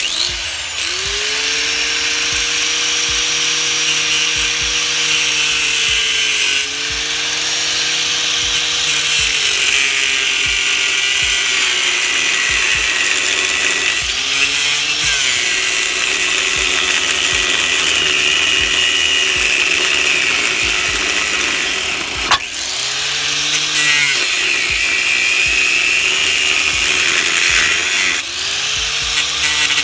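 A cutoff wheel cutting through an old exhaust pipe: a loud, high-pitched grinding hiss over the tool's motor whine, which spins up and winds down several times as each cut is started and stopped, with one sharp click about two-thirds of the way through.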